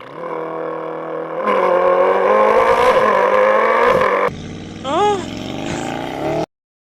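Human mouth imitation of an Audi RS6 engine, buzzed through a cardboard toilet paper roll as a launch-control start. A steady engine-like hum steps up about a second and a half in to a louder, rougher run of about three seconds. Then comes a quieter tone with a quick rising-and-falling chirp, and the sound cuts off suddenly near the end.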